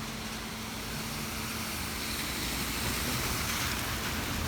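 Heavy rain falling steadily as an even hiss, with a low rumble underneath and a faint steady hum; the hiss swells slightly midway.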